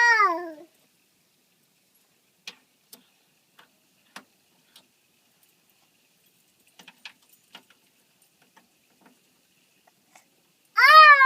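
Scattered light clicks and rattles of a key being fumbled at a truck's ignition, with no engine cranking. A short high cry falling in pitch comes at the start and again near the end.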